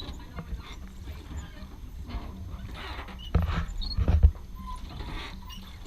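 Rowing a rowboat: the oars knocking and working in their oarlocks over a steady low rumble, with a louder cluster of thumps and splashy noise about three and a half to four seconds in.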